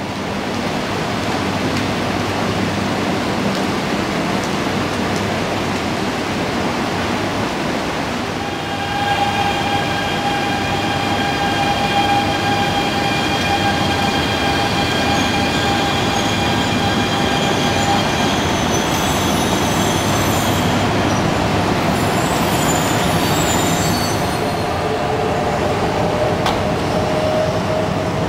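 400 series Shinkansen train running through a station, a steady rumble and rush of the cars. About a third of the way in, a steady high whine with several overtones joins it. Later come higher-pitched squeals, and near the end a whine that slowly falls in pitch.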